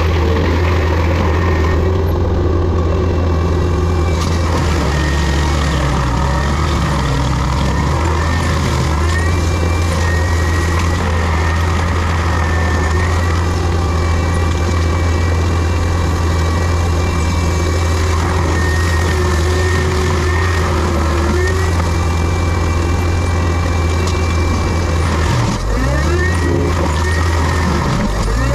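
Diesel engine of heavy land-clearing machinery running steadily under load, with a high hydraulic whine that shifts in pitch and comes and goes. Near the end the engine note dips and then climbs back.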